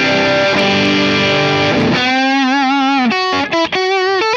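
Distorted electric guitar through a Marshall JCM 800 amp model: a held chord, then about two seconds in a single lead note with wide vibrato, followed by a few short picked notes.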